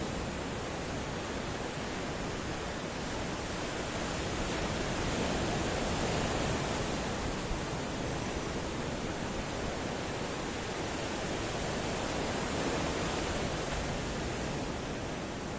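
Ocean waves washing on a shore: a steady rush of surf that swells gently a few seconds in and again later, with no distinct crashes.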